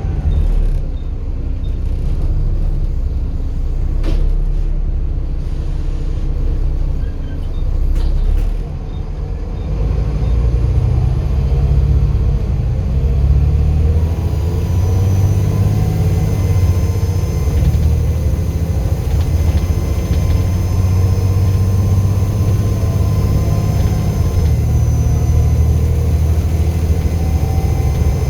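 Volvo B7 bus diesel engine running under load with a heavy rumble that builds about a third of the way in. After that, a steady high turbo whistle sits over the engine. A couple of sharp clicks come early on.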